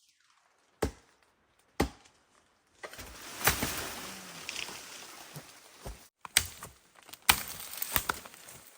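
A blade chopping at wood: two single strikes a second apart, then from about three seconds in a run of irregular hacks over a continuous rustling, scraping noise.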